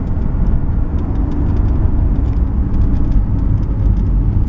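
Cabin sound of a Jaguar XK8's 4.0-litre V8 and tyre rumble while the car drives along steadily, the engine pulling with the accelerator released: the rebuilt throttle body is letting the engine run away on its own.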